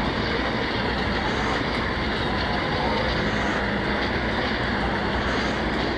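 Train running on rails: a steady, dense rumble and rush of noise, with a faint higher hiss that comes back about every two seconds.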